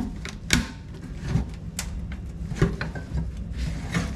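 Irregular knocks, clicks and clinks of tools and fittings being handled while an old faucet's mounting hardware is being undone and taken apart, with a steady low hum underneath.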